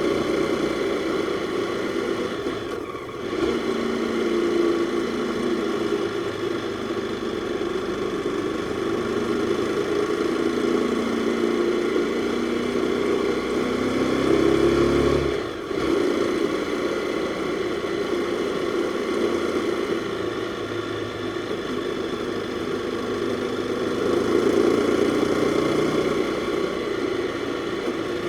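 Jawa 42's single-cylinder four-stroke engine running under way, with a steady pulsing hum. The sound dips briefly twice, about three and fifteen seconds in.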